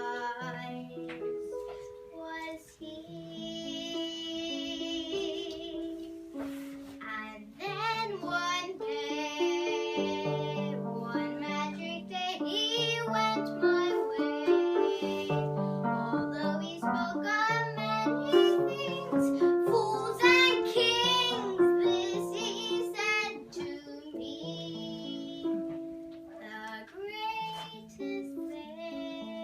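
A high voice singing with strong vibrato over plucked string accompaniment.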